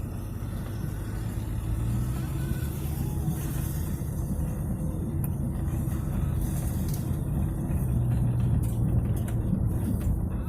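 1972 Ford Mustang's 302 (5.0-litre) V8 engine running steadily with a low exhaust drone. The drone swells a little about two seconds in and again near the end.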